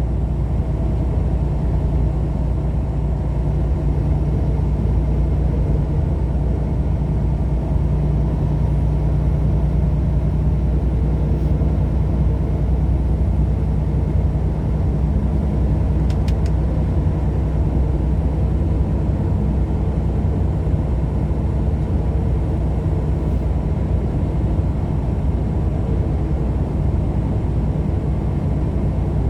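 Truck cruising at highway speed, heard from inside the cab: a steady low engine drone mixed with road noise.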